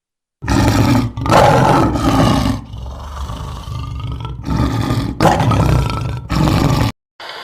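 A large wild animal roaring: a series of loud, rough roars with a quieter stretch in the middle, cut off abruptly near the end.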